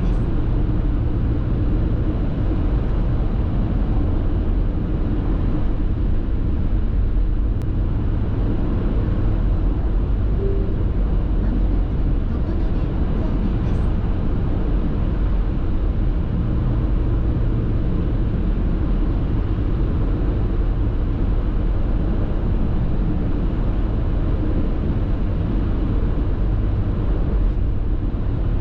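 Steady road noise inside a car cruising on an expressway: a constant low tyre and engine rumble.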